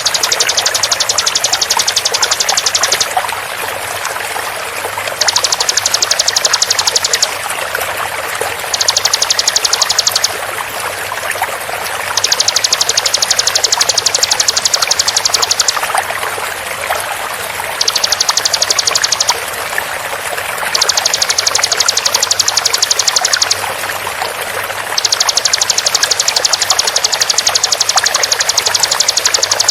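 Ciblek (bar-winged prinia) calling in fast bursts of rapid, evenly repeated high notes, seven bursts of about two to three seconds each with short pauses between, over a steady rush of flowing water.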